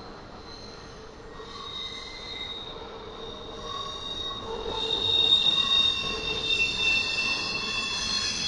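Intermodal freight train's steel wheels squealing against the rails as the cars roll past: several steady high-pitched tones that swell from about a second and a half in and grow loudest past the middle.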